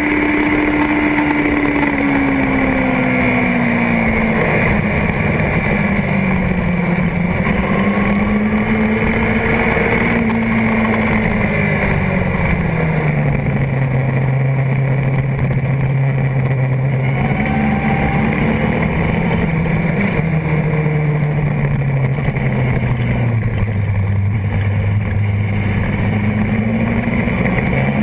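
Honda CBR600RR's inline-four engine, heard from a camera on the fuel tank, with its revs falling in stages as the bike slows and brief rises along the way.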